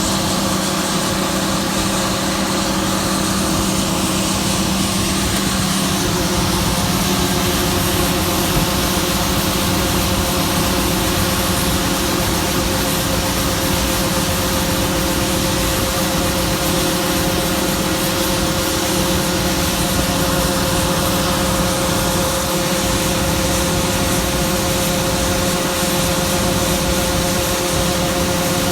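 John Deere combine running steadily while harvesting soybeans: a continuous mechanical drone with several steady tones over a broad noise. The low hum changes about six seconds in.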